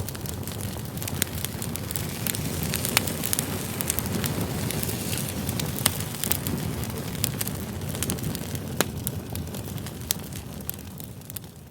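Wood campfire burning: a steady low rush of flame with frequent sharp crackles and pops from the burning logs, fading out near the end.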